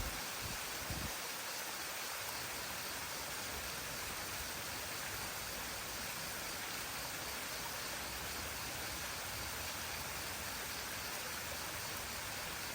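Steady rushing of a small waterfall, an even hiss without change, with a couple of brief low thumps in the first second.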